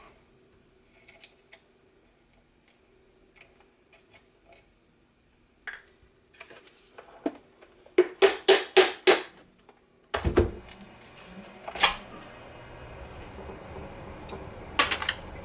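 Clinks and knocks of a plastic Sea Scooter housing and small metal parts being handled during disassembly, with a quick run of about six sharp clacks about eight seconds in.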